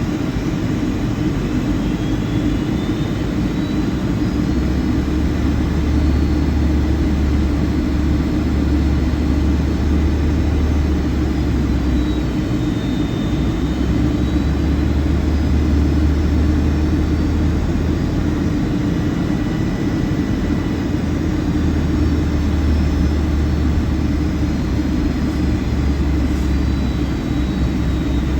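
Steady cabin noise of a Boeing 757-200 in flight, heard from inside the cabin: a loud, even rush of air and engine noise. Beneath it is a low drone that swells and eases in spells of several seconds.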